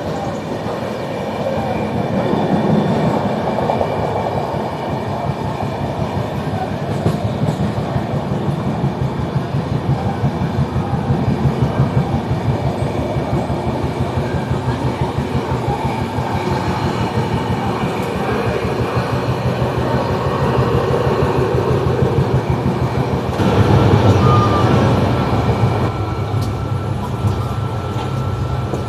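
Express train running at speed, its wheels clattering rapidly over the rails. About three-quarters of the way through, the sound turns louder and deeper, with a steady high tone joining in.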